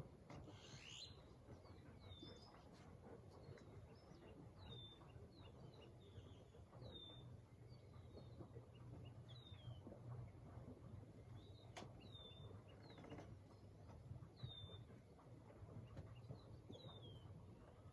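Faint bird calls: a short, high chirp that slides downward, repeated about every two seconds, over a low steady hum.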